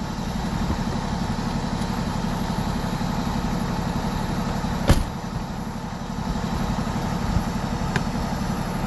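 A motor vehicle engine idling steadily with an even low pulse, and one sharp click about five seconds in.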